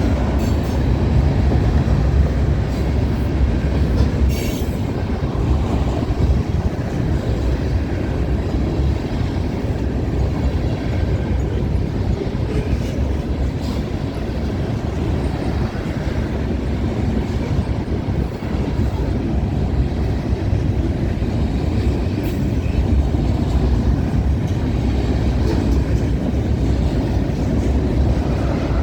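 Freight cars of a CN freight train rolling past: a steady rumble of steel wheels on rail, with a few sharp clicks.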